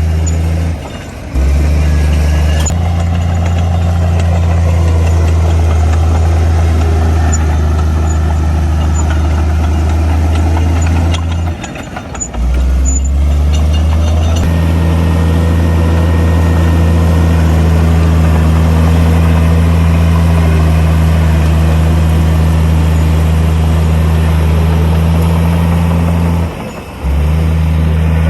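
Heavy diesel engine of earthmoving machinery running at a steady, constant drone, briefly dropping away three times.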